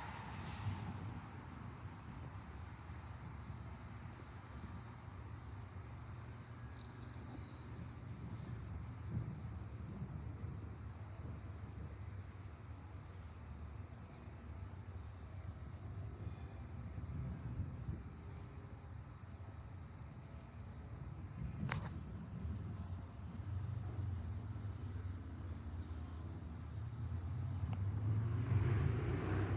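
Crickets chirring in one steady, unbroken high trill, over a low rumble that grows louder near the end. Two faint clicks, about seven seconds in and again a little past twenty seconds.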